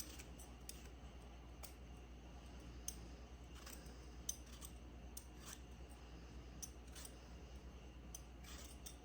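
Sweet potatoes being peeled by hand: faint, irregular scraping strokes of a blade against the skin, about one a second.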